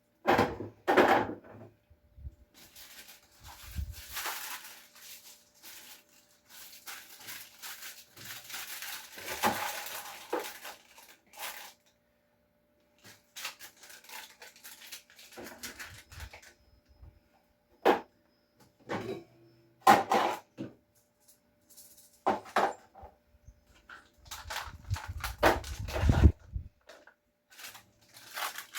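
Irregular clatter and knocks of food containers and items being handled and set down on refrigerator shelves, with stretches of scraping or rubbing between them and a faint steady hum underneath.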